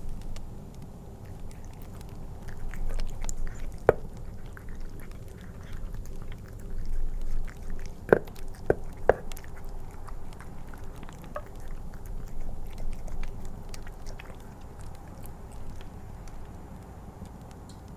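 Bengal cat chewing wet cat food in gravy close to the microphone, with many small wet clicks of its chewing, over a steady low wind rumble and fire crackle. A sharp click stands out about four seconds in, and three more come close together about halfway through.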